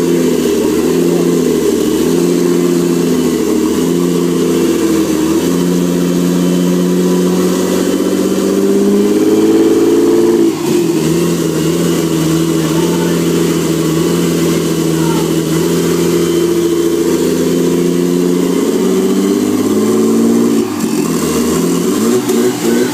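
Nissan RB25DET 2.5-litre turbocharged straight-six running loud with no exhaust, MAF or intercooler pipes fitted, at varying revs. The revs climb twice, about ten and twenty seconds in, and drop sharply each time.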